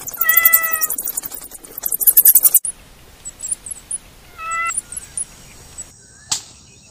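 Guinea pigs squeaking: two short high-pitched calls, one near the start and one about four and a half seconds in. The first call sits over a loud, rapid crackle that cuts off suddenly about two and a half seconds in.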